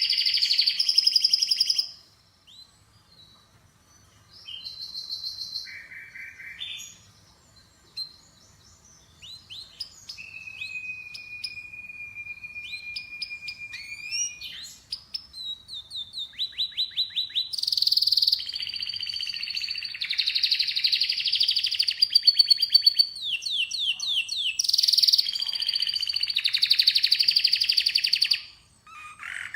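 Domestic canary singing a varied song of rapid trills and chirps, with a long steady whistled note about ten seconds in and loud rolling trills through the second half, broken by short pauses between phrases.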